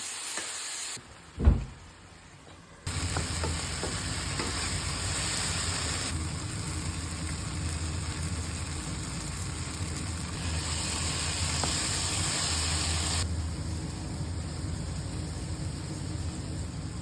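Food frying in hot oil in a pan, sizzling, in a few short back-to-back clips, with a steady low hum under it from about three seconds in. A single knock about a second and a half in.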